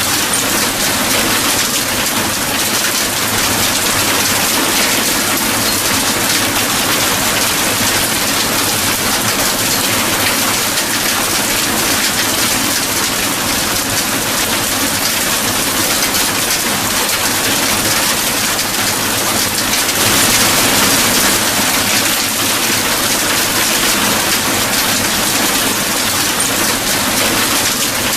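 Steady heavy rain, an even hiss, swelling a little louder about two thirds of the way through.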